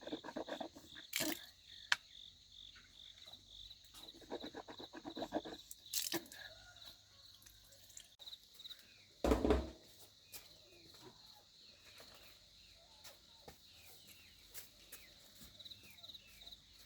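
Insects chirping steadily in a fast, even pulse, with a few short knocks and one louder thump about nine seconds in.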